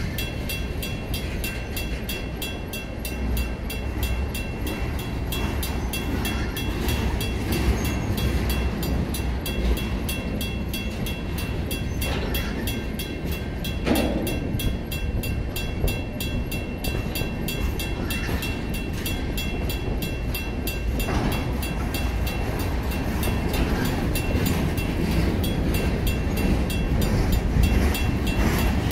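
Freight train of empty centerbeam flatcars rolling past at steady speed, wheels rumbling and clicking over the rail, with one louder clank about halfway. Over it, the crossing's first-generation WCH mechanical bell rings in a rapid, even rhythm.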